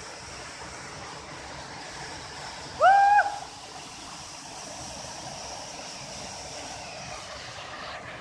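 Steady rush of flowing stream or waterfall water. About three seconds in, one short, loud hoot-like call glides up and then holds its pitch for about half a second.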